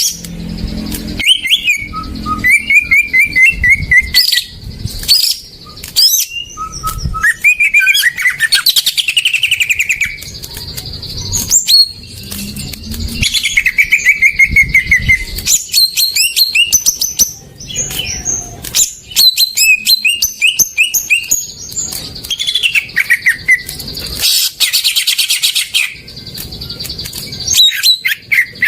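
Greater green leafbird (cucak ijo) singing loudly in varied phrases: quick runs of chirps that fall in pitch, mixed with whistles and sharp clicks, with short pauses between phrases.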